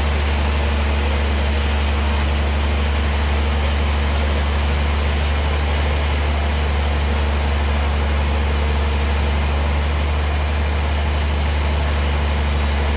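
Bandsaw sawmill running steadily: a strong, unchanging low hum with an even wash of noise over it.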